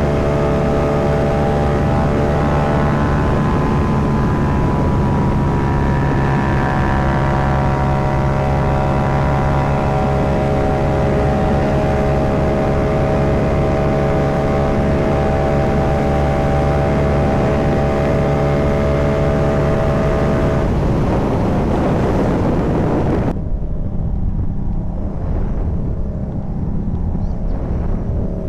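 Yamaha MT-07's parallel-twin engine running at a steady speed under wind rush while riding. About 21 seconds in the steady note breaks up, and soon after the wind noise cuts off suddenly, leaving a quieter, low engine sound.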